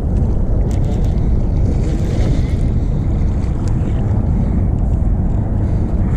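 Bass boat under way at speed: its outboard motor is running, with water rushing past the hull and wind buffeting the microphone in a steady, loud rumble.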